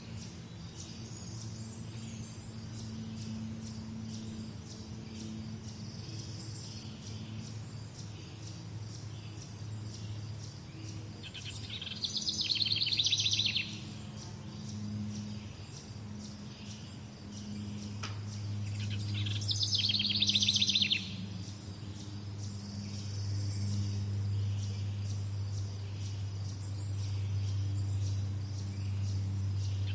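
Morning birdsong: faint chirping throughout, with two loud, rapid trilled phrases, one about 12 seconds in and another about 20 seconds in, over a steady low hum.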